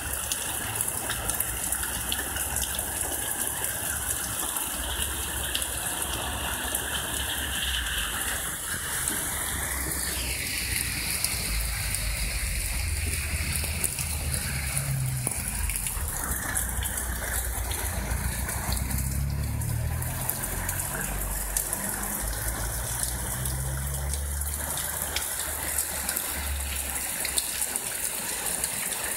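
Heavy rain falling steadily, a dense hiss of drops, with some wind gusting low underneath.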